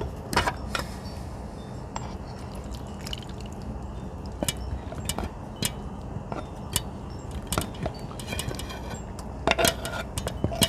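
Cutlery clinking and scraping against plates and bowls in scattered light taps, busier near the end, over a steady low background hum.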